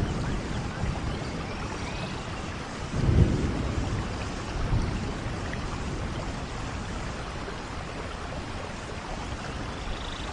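Steady rain falling, with a low rumble of thunder swelling about three seconds in and a smaller one shortly after.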